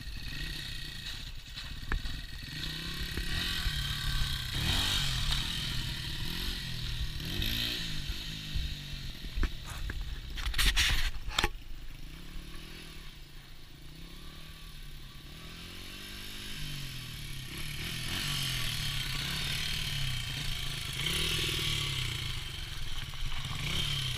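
Small dirt bike engine revving up and easing off several times as it is ridden for wheelies. About eleven seconds in come two sharp knocks, the loudest sounds here.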